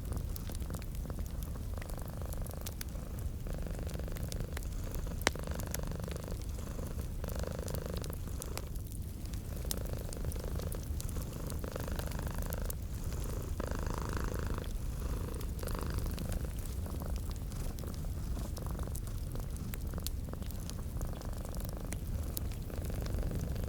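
Cat purring steadily, a low rumble that swells and eases with each breath, over a fireplace's scattered crackles and pops.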